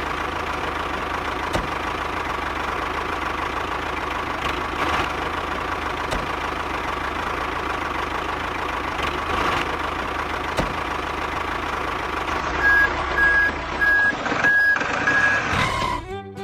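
Truck engine running steadily; near the end a reversing alarm gives several short, evenly spaced beeps.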